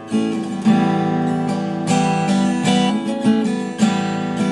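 Acoustic guitar playing chords, struck afresh about every half second to a second with the notes ringing on between strokes.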